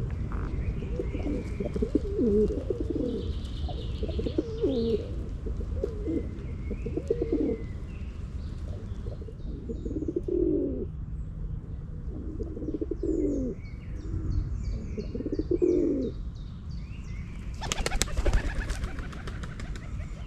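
Pigeons cooing, a low call repeated every second or two, over a steady low background rumble, with small birds chirping faintly higher up. A brief noisy burst comes near the end.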